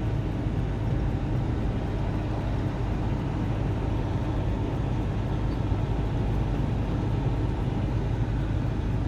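Semi truck driving at highway speed: a steady low engine drone and road rumble.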